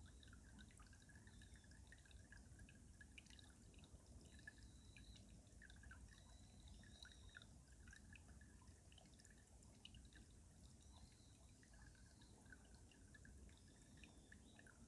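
Faint mountain stream water running beneath ice, with many small irregular drips and plinks over a low steady rush.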